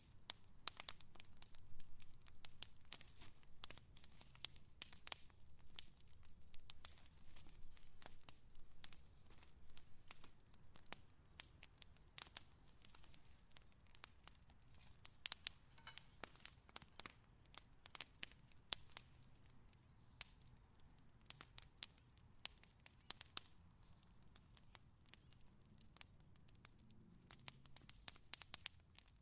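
Fire crackling: irregular sharp pops and snaps over a soft low rumble, coming thick in the first half and thinning out later.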